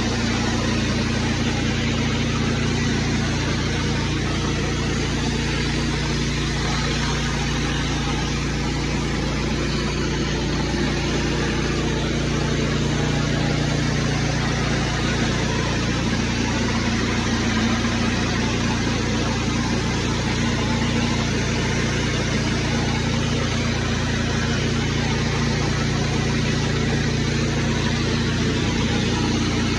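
Petrol-engined pressure washer running steadily under load, with a constant hiss of high-pressure water spraying on concrete.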